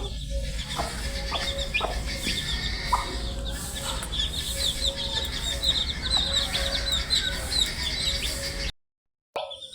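A brood of baby chicks peeping: many short, high chirps overlapping continuously over a low hum. The sound drops out briefly about nine seconds in.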